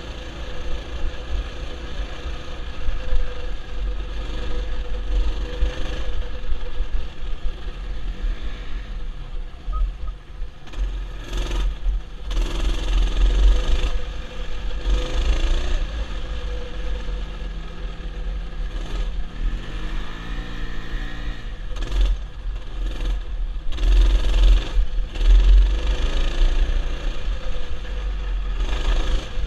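Mini bike's small engine running on a ride, its pitch rising and falling with the throttle a few times, with heavy wind buffeting on the microphone.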